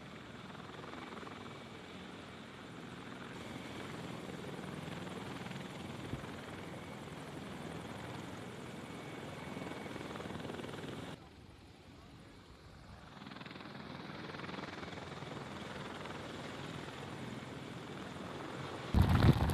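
Helicopter running, a steady noisy rumble. It drops away for a couple of seconds a little past the middle, then comes back and gets much louder near the end.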